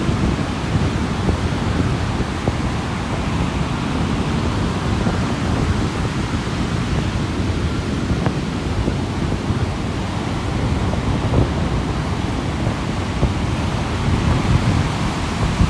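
Mediterranean sea surf breaking and washing on a beach: a steady rushing rumble, heaviest in the low end.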